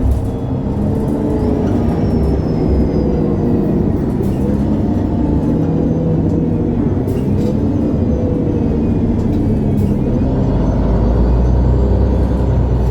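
MAN A23 Lion's City G articulated city bus driving, heard from inside: steady engine and drivetrain running with faint gliding whines and a few light clicks, growing into a deeper, louder rumble about ten seconds in.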